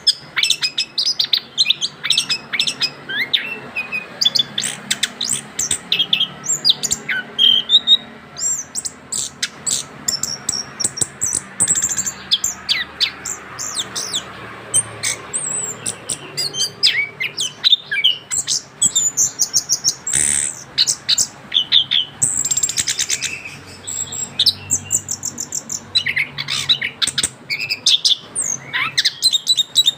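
Young orange-headed thrush singing a long, unbroken song of rapid, varied whistled and chattering phrases, the continuous 'ngerol' delivery of a bird in full song just after its moult.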